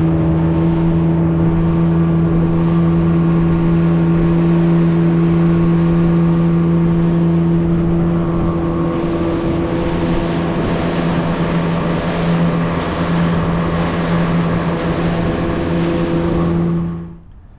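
Boat outboard motor running at a steady speed, a constant drone that holds the same pitch throughout. It cuts off abruptly near the end.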